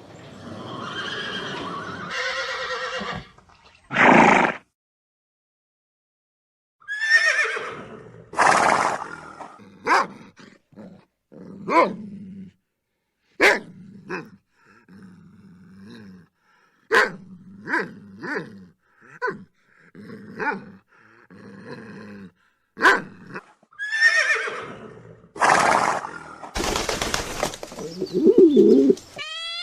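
Horse neighing in a series of separate loud calls, with sharp knocks in between and a silent pause a few seconds in. A cat's meow starts just at the end.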